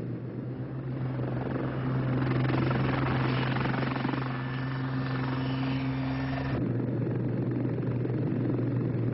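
Westland Lynx helicopter in flight: rotor and turbine noise that swells about two seconds in and cuts off abruptly a bit over six seconds in. A steady low hum runs underneath.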